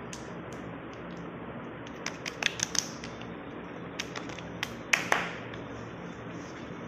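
Scattered light clicks and taps from handling a small skincare serum packet, in a few quick clusters over a steady low hiss.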